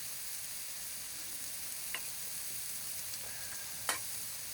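Food sizzling in a hot pan, a steady frying hiss, with two sharp clicks about two seconds and four seconds in.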